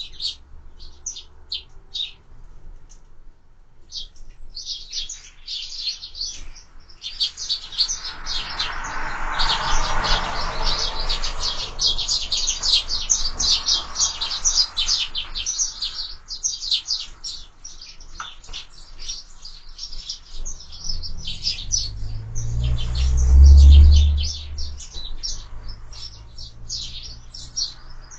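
A flock of sparrows chirping, sparse at first and then a dense, nearly continuous chatter of quick chirps. A loud low rumble swells and fades about two-thirds of the way through.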